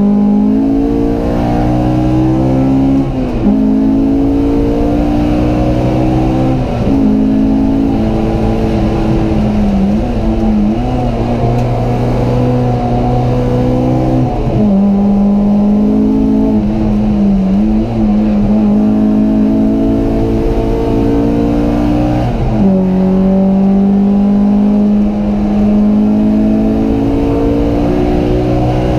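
Honda Civic Type-R engine driven hard on a race track, heard from inside the cabin: its pitch climbs steadily under load and drops sharply at each gear change, every few seconds.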